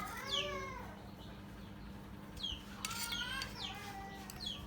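Birds chirping, repeated short downward-sliding chirps, with a longer pitched call rising and falling near the start and again about three seconds in, over a steady low hum.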